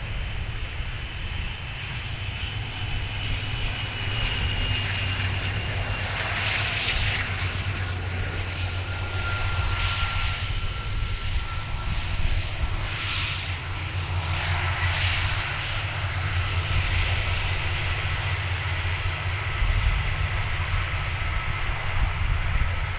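Jet airliner engines with a low rumble and a thin high whine that slowly drops in pitch, swelling in waves of rushing noise through the middle as the aircraft passes.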